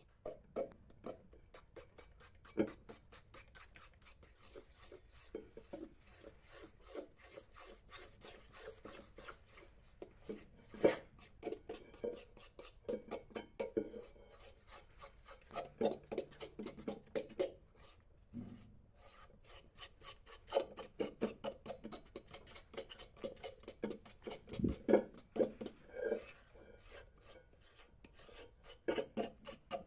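A whisk beating thick cake batter in a bowl by hand, with quick, even scraping strokes against the sides of the bowl.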